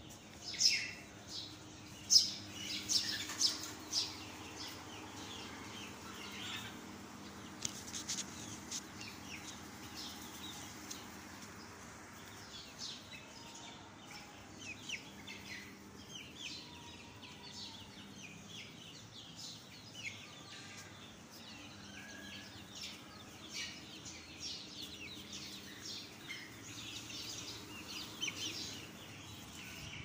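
Small birds chirping busily: many short, high chirps, loudest in the first few seconds, over a faint steady low hum.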